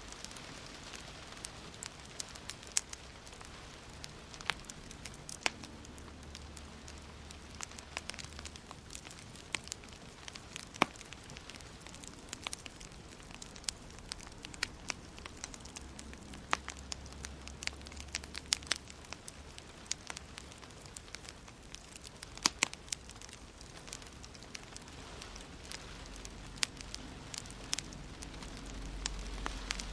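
Wood fire burning in a fireplace, crackling with sharp, irregular pops and snaps over a steady hiss, with a faint low rumble that grows near the end.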